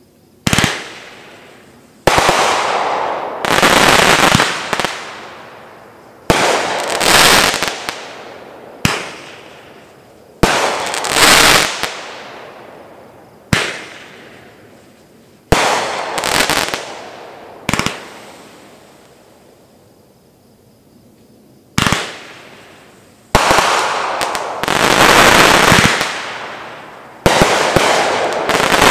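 Great Grizzly Sierra 500-gram firework cake firing its volleys: about a dozen sharp shots, each followed by a fading rush of bursting and crackling noise lasting a second or two. There is a pause of a few seconds near the middle.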